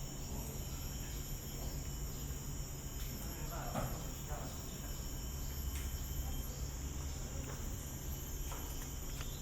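Steady high-pitched drone of tropical forest insects, crickets or cicadas, with a low rumble underneath and a few faint clicks. A brief mid-pitched call or voice sounds about four seconds in.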